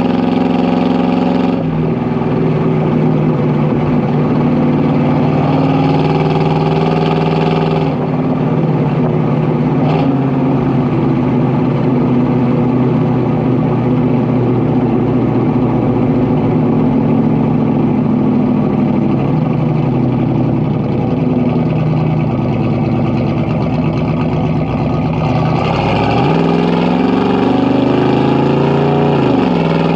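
Exhaust of a 1980 Ford 400 V8 under way. The engine note drops at about 1.5 s and again at about 8 s, holds steady through the middle, then climbs as it accelerates near the end and falls again just before the end.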